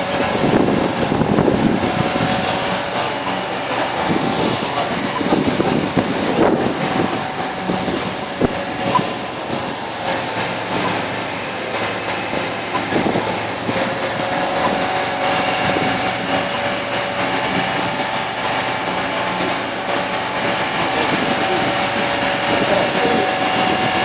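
Heavy vehicle engines running steadily amid street noise, with a steady whine held on two pitches that grows clearer in the second half.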